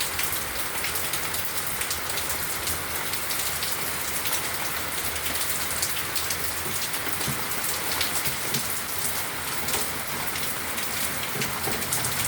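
Heavy rain falling steadily, a dense hiss of drops striking surfaces with many fine drop ticks.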